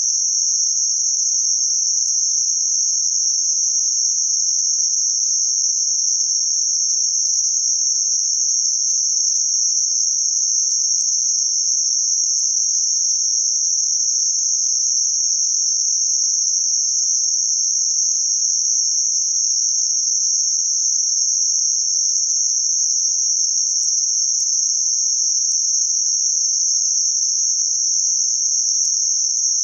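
Synthetic noise band centred around 6051 Hz: a steady, high-pitched hiss confined to a narrow range of pitch, with no change in level.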